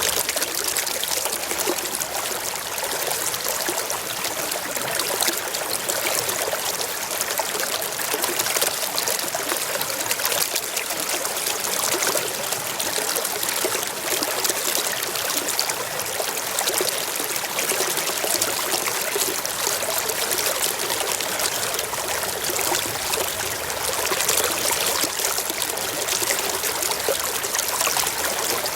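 Mountain stream flowing over rocks: a steady trickling and splashing rush of water with no change in level.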